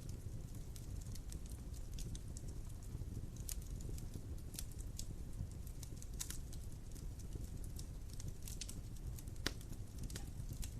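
Wood fire crackling in a fireplace: irregular small pops and snaps over a low steady rumble, with one sharper pop near the end.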